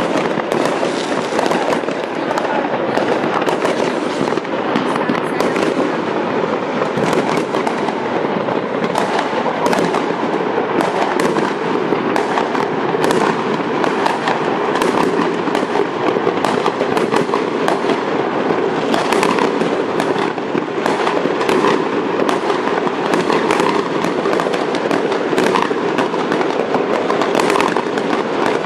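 Many fireworks going off at once, their bangs and crackles overlapping into a steady, unbroken din, with sharper single cracks standing out again and again.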